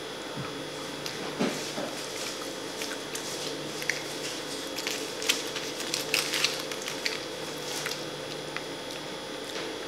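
Close-miked chewing and mouth sounds of someone eating: scattered wet smacks and clicks, thickest in the middle, over a faint steady hum.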